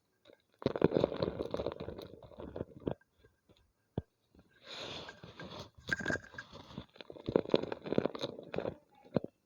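A homemade gym chalk ball being crushed and crumbled by hand, crunching in three stretches, with a single sharp click about four seconds in.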